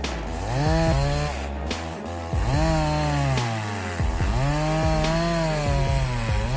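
Two-stroke chainsaw revved three times, each time climbing in pitch and then sagging back down, with a short drop between revs.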